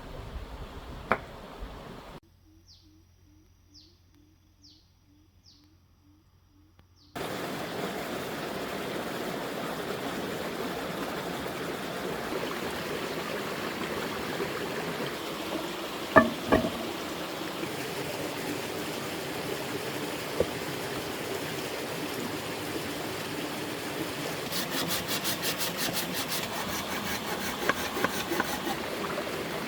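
Steady rush of a flowing stream, which starts abruptly about seven seconds in after a quiet stretch with a faint high chirp repeated every half second or so. There are a couple of knocks about sixteen seconds in and a fast run of high clicks near the end.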